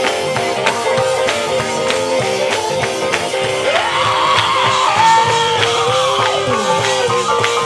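Live gospel band playing with electric guitar and a steady drum beat; a wavering high line enters about halfway through.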